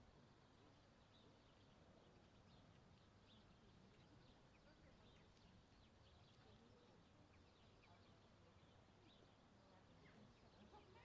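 Near silence: faint outdoor ambience of small birds chirping here and there over a low, steady rumble.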